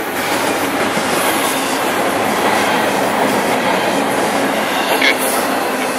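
Train passing close by: a loud, steady rush of wheels rolling on the rails.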